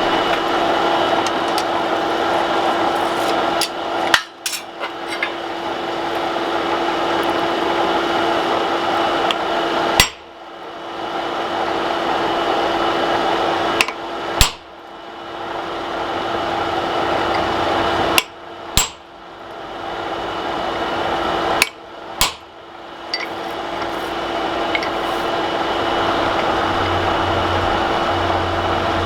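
Blacksmith's forge running steadily while the steel heats: a constant rushing noise with a steady hum. A few single sharp metal knocks break in at irregular gaps of several seconds, the loudest sounds in the stretch.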